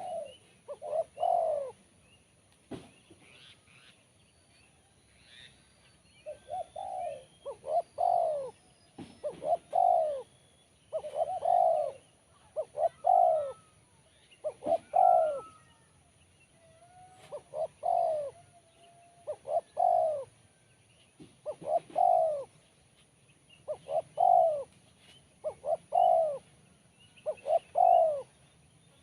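Spotted dove (tekukur) cooing over and over, a short phrase of a few notes about every two seconds, in the crisp, sharp voice valued in contest doves. The cooing pauses for a few seconds about two seconds in, then resumes. Small birds chirp faintly in the background.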